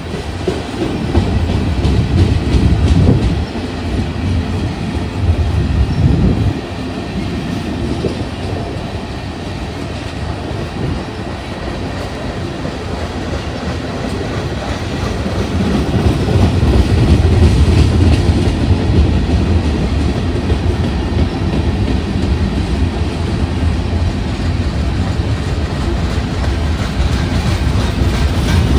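A train rolling past on the track: continuous heavy rail noise from the wheels and cars, swelling louder a few times.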